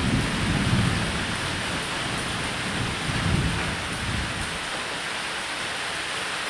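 Steady rain falling on a roof, with low rolls of thunder swelling near the start and again about three seconds in.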